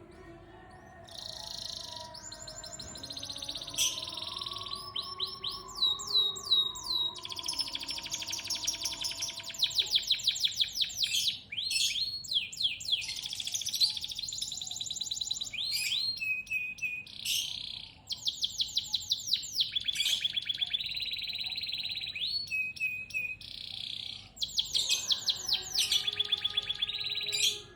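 Domestic canary singing long, varied phrases of rapid trills and rolling notes, with short breaks between phrases.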